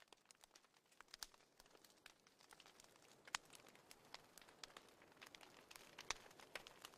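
Faint, irregular crackling: many scattered sharp pops and snaps, like a bonfire burning.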